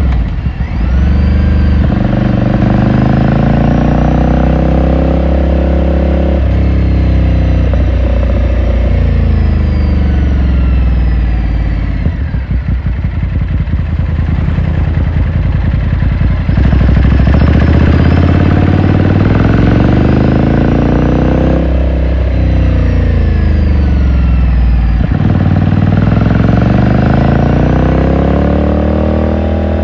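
2018 Ducati Scrambler Sixty2's 399 cc air-cooled L-twin heard from the rider's seat, pulling through the gears with the exhaust note rising and then dropping at each shift. For a few seconds in the middle it falls back to a lower, uneven off-throttle beat before pulling up again.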